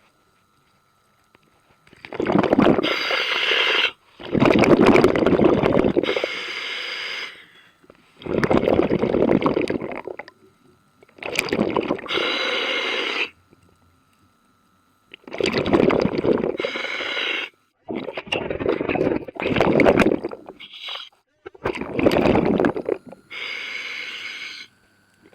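A scuba diver breathing underwater through a regulator: hissing inhalations alternate with bubbling exhalations in a repeating cycle, with short silences between breaths.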